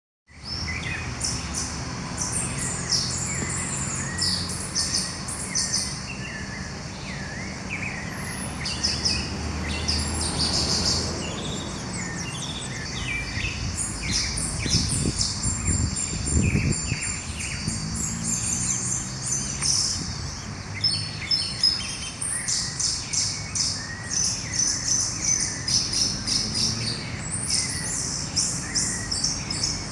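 Dawn chorus of many songbirds, with high chirps and trills overlapping densely. A faint low hum runs underneath, and a brief low rumble comes about halfway through.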